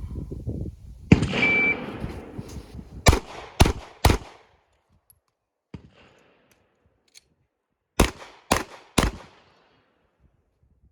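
A shot timer beeps once, then a 9mm Glock 19 pistol fires three quick shots about half a second apart. After a pause of about four seconds for a slide-lock reload, it fires three more shots at the same pace.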